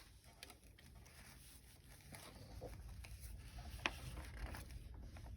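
Pages and paper inserts of a junk journal being handled and turned: faint paper rustles and light taps, with one sharper tick about four seconds in.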